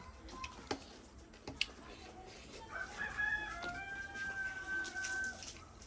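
A rooster crowing once, a long drawn-out call starting about three seconds in, after a few short sharp clicks.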